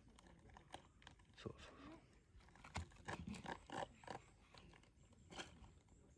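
Knife sawing back and forth through food, heard as faint scraping and crunching with scattered sharp knocks.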